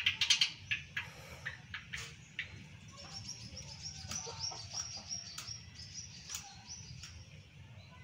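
Small birds chirping: scattered short high chirps, then a quick run of high repeated notes from about three seconds in that stops about six and a half seconds in.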